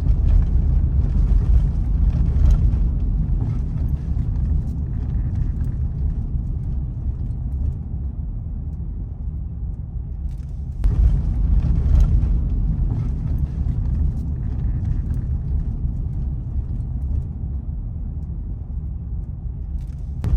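Low rumble of a car on the move, engine and road noise, swelling louder near the start and again about eleven seconds in.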